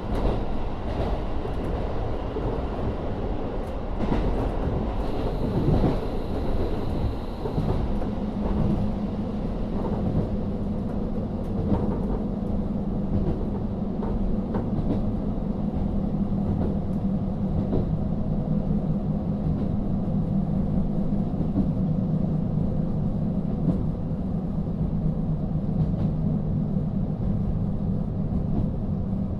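Running sound inside a KiHa 40 diesel railcar, powered by a DMF13HZB diesel engine. There is steady rolling noise with scattered clicks from the wheels over rail joints. From about 8 s in, a steady low engine drone joins and holds.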